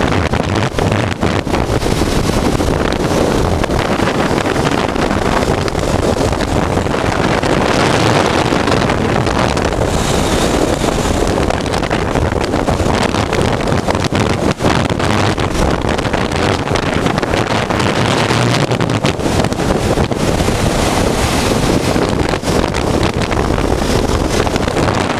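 Heavy wind buffeting on the microphone over the steady running of a 1988 Honda Transalp's V-twin engine while under way on the road.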